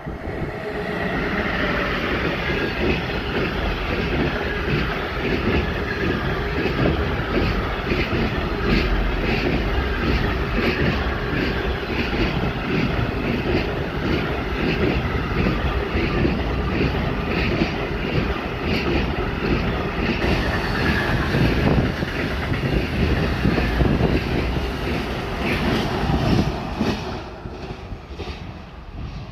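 Intermodal freight train of semitrailer pocket wagons rolling past at speed, its wheels clattering steadily over the rails with a rushing rumble; the noise dies away near the end as the last wagon passes.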